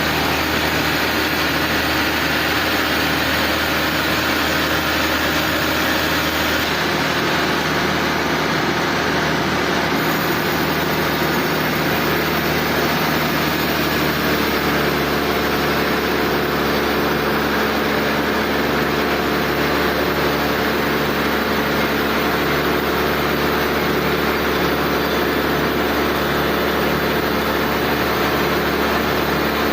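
Sawmill machinery running steadily, with an engine-like hum whose pitch pattern shifts abruptly about a quarter and about halfway through.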